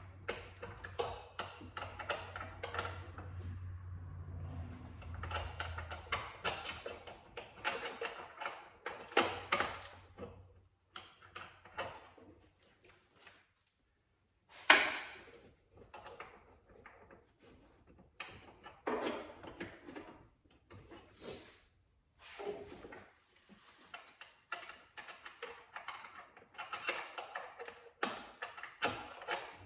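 Scattered clicks, knocks and rattles of hand tools and parts being worked in a cramped space during removal of a 1988 Camaro's heater blower motor, with one loud knock about fifteen seconds in. A low hum sits under the first few seconds.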